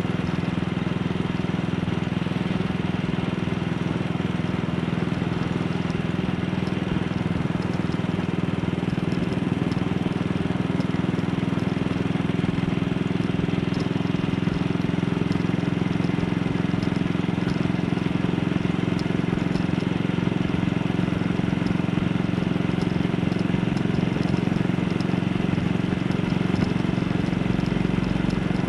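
AJS Model 8 single-cylinder motorcycle engine running steadily under way, with wind and road noise; its pitch rises a little about ten seconds in, then holds.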